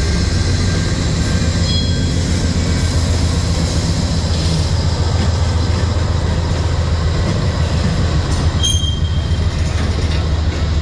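Freight train cars rolling past with a steady low rumble, and brief high-pitched wheel squeals about two seconds in and again near nine seconds.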